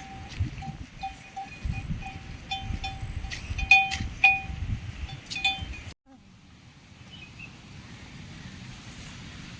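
A metal livestock bell clanking irregularly as the animal moves, one or two ringing strokes a second over low rumbling. About six seconds in, it cuts off suddenly and a steady hiss follows.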